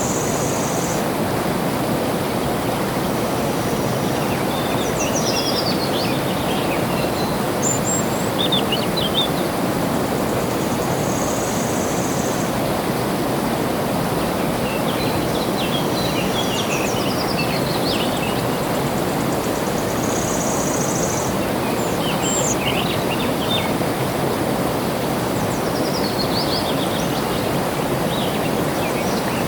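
Flowing water rushing steadily, with small birds chirping and trilling in short high phrases every few seconds above it.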